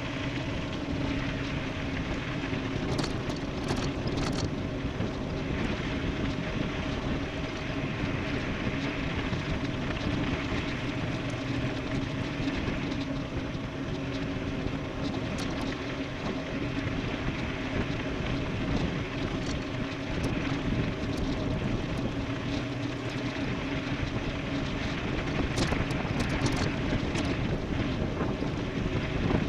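Electric mountain bike riding fast downhill: steady wind rush on the microphone with a steady tyre and drivetrain hum, and a few brief rattles about three seconds in and near the end.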